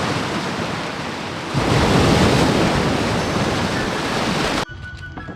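Sea waves washing onto the shore, with wind buffeting the microphone; the surf swells louder about a second and a half in. It cuts off abruptly near the end, giving way to soft background music.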